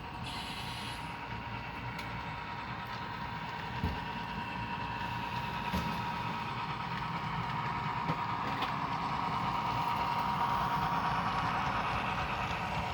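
Model SD40T-2 diesel locomotive's onboard sound system playing its EMD diesel engine sound as the train runs, with a steady whine underneath and a few short clicks from the track. It grows gradually louder toward the last few seconds.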